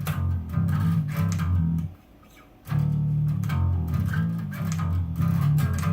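Bass guitar playing a line of plucked notes, breaking off for a moment about two seconds in, then picking up again with another run of notes.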